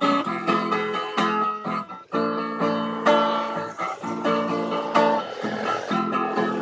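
Instrumental break in a song: a guitar plays strummed and plucked chords, with no singing.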